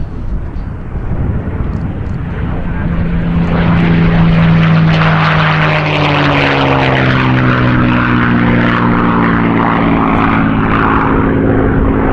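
Propeller airplane flying past, its low droning tone growing loud about three seconds in and then slowly dropping in pitch as it goes by, over a rushing noise.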